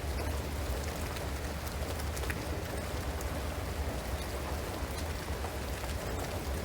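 Steady rain falling on a shingled roof and pine trees: a dense, even hiss with scattered sharp ticks of single drops, over a steady low rumble.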